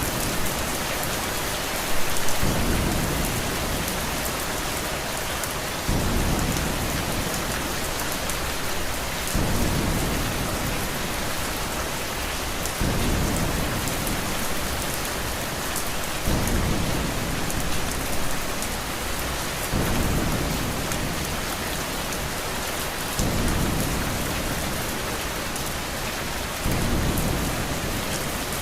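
Steady rain hiss, with a low thunder rumble that swells in suddenly and fades about every three and a half seconds.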